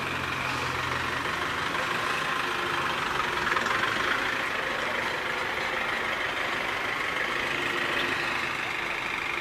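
Steady engine noise of emergency vehicles idling. A deep low hum stops about a second in, and the rest is an even running noise.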